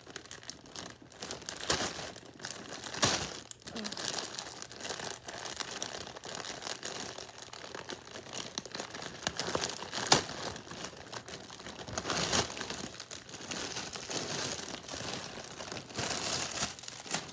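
Packaging being crinkled and torn open to unbox a hoodie: continuous crackling and rustling, with sharp louder crinkles about 3, 10 and 12 seconds in.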